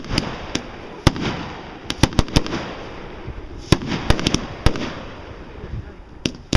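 Aerial fireworks bursting: about a dozen sharp bangs at irregular intervals, some in quick clusters, with a low rolling rumble between them.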